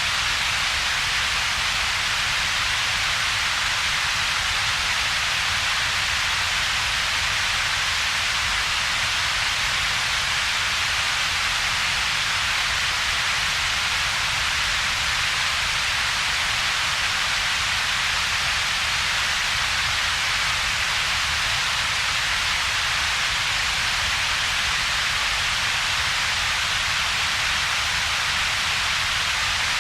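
Steady synthetic double-peaked noise: a strong hiss centred around 2–4 kHz and a separate low rumble below about 200 Hz, with a gap in between. It is unchanging throughout.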